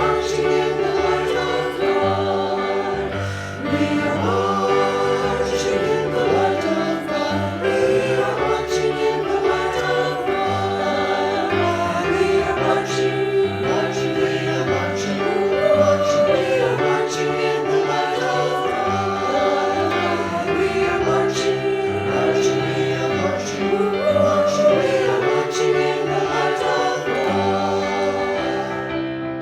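A choir singing a hymn in several voices, with sustained notes that change every second or so.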